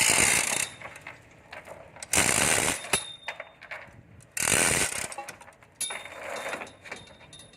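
A ratchet-type tool working in four short bursts, each well under a second, spaced about two seconds apart.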